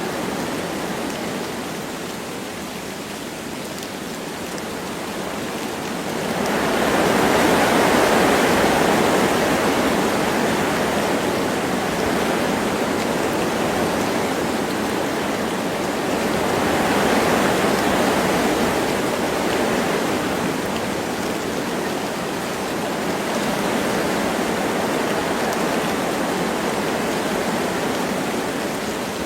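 Wind blowing through forest trees with light rain falling: a steady rushing that swells into a stronger gust about six seconds in and again about halfway through.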